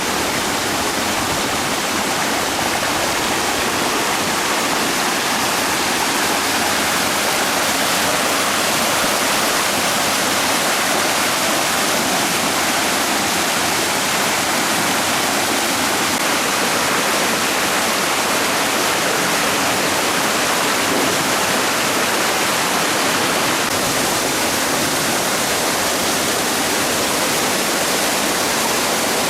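Waterfall running steadily: a loud, even rush of falling and splashing water.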